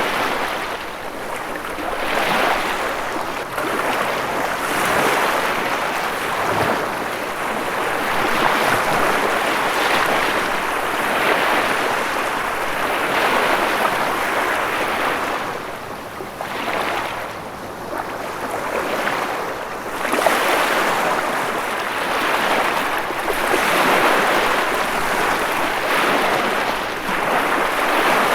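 Ocean waves breaking and washing on a shore, a continuous rush of surf that swells and falls back every few seconds.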